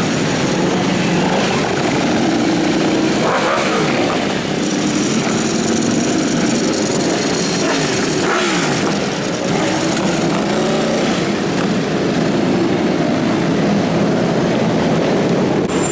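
Motorcycle engines running in busy traffic, with bikes revving and passing by about three and eight seconds in.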